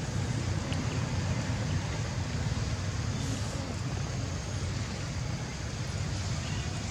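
Steady low rumbling background noise that holds level throughout, with no distinct events.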